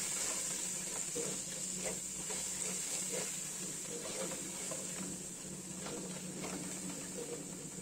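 Onion-tomato masala sizzling in oil in a nonstick pot, with a plastic spatula stirring it in short, irregular scrapes and taps against the pan. A steady low hum sits underneath.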